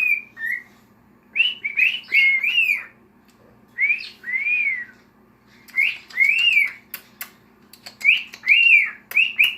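Male cockatiel whistling: short phrases of two to four rising-and-falling notes with pauses between them, and a few sharp clicks about seven seconds in.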